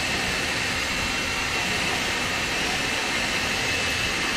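Forney FC125 flux-core welder's arc running a bead on steel, a loud steady hiss with a faint high tone.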